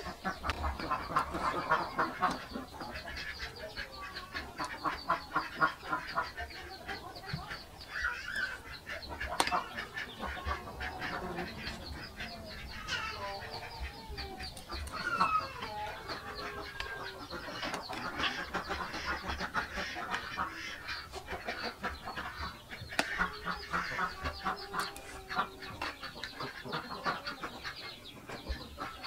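Close-up chewing and crunching of crisp fried pork, a quick run of small clicks, with fowl clucking now and then in the background.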